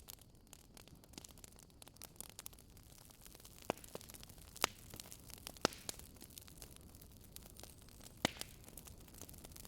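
Wood fire crackling in a fireplace: a dense patter of small crackles over a low hiss, with four louder pops in the second half.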